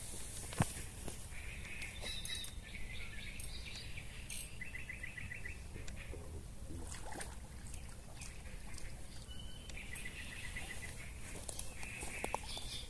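Birds calling in short, rapid trills repeated every second or two, over a low steady rumble, with one sharp click about half a second in.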